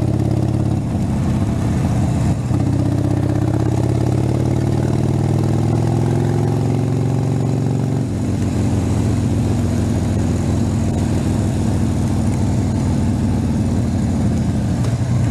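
Harley-Davidson Sportster's V-twin engine running under way, its pitch climbing slowly for several seconds, then dropping suddenly about eight seconds in and holding steady after.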